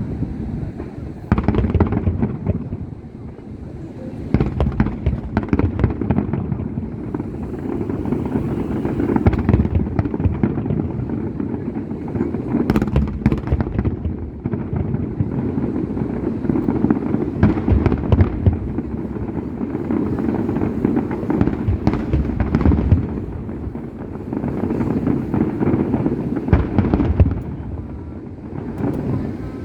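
Fireworks display: a continuous barrage of deep booms and sharp cracks from aerial shells bursting in quick succession.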